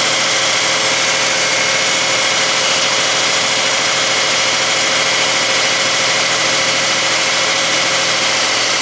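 The three-cylinder engine of a high-mileage (230,000-mile) 1997 Geo Metro idling steadily.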